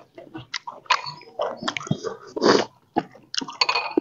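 Close-miked chewing of a mouthful of noodle soup, in irregular wet bursts, with a few small sharp clicks in between.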